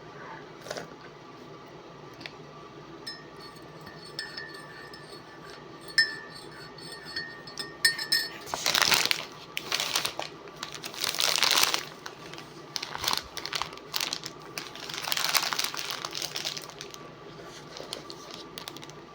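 Food wrapper being crinkled and handled in several loud bursts from about eight seconds in, after a few small clinks, over a steady faint hum.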